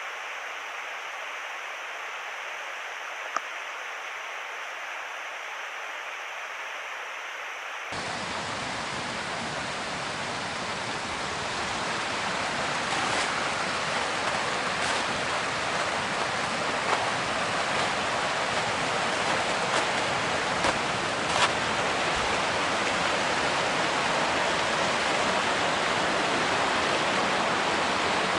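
Steady rushing noise. About eight seconds in it changes abruptly to a louder, fuller rush that builds over the next few seconds, with a few faint clicks.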